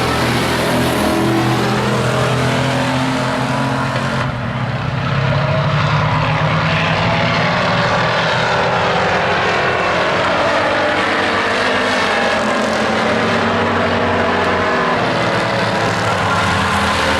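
Stock-class race trucks' engines running at racing speed: a loud, steady drone of several engines whose pitches rise and fall over one another. The high end drops away for a moment about four seconds in.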